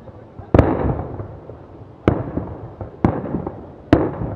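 Fireworks display shells bursting overhead: four sharp bangs, each about a second apart, every one trailing off in a rolling boom and crackle.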